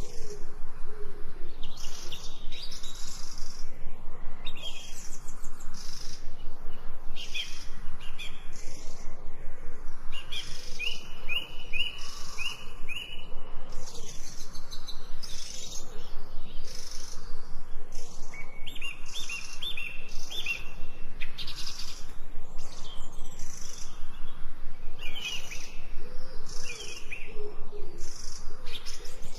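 Several birds chirping and singing, with short quick trilled series. A low cooing call comes in near the start and again near the end.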